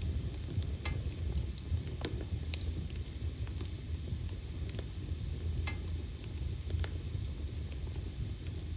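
Wood fire in a fireplace, logs burning with scattered sharp crackles and pops, about one a second, over a low steady rumble.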